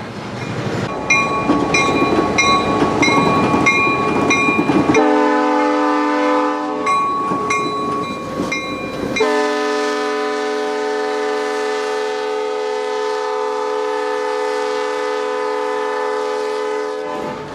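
EMD GP38-2 diesel locomotive working with its bell ringing steadily, then a short horn blast about five seconds in, more bell, and a long horn blast of about eight seconds starting about nine seconds in, cutting off just before the end.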